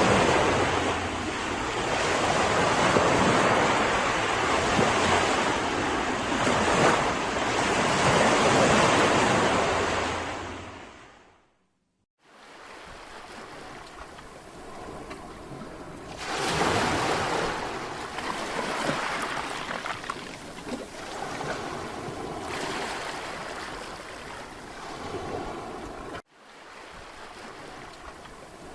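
Sea waves washing onto a Mediterranean beach, a steady surging rush. It fades out about eleven seconds in, then comes back much quieter with gentler swells, and drops out briefly once more near the end.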